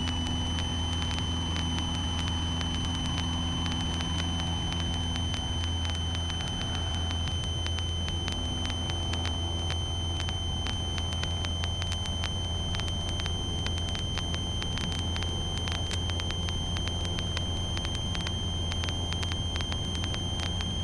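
Cessna 150's four-cylinder Continental O-200 engine running steadily at climb power after a touch-and-go, a constant drone with a steady high-pitched whine over it.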